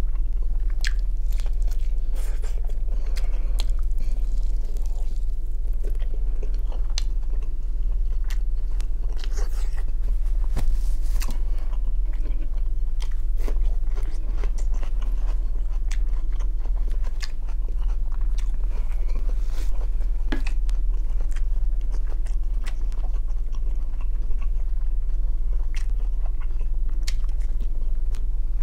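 Close-miked eating: chewing grilled shashlik meat and biting fresh cucumber, with crisp crunches and wet mouth clicks scattered throughout, over a steady low hum.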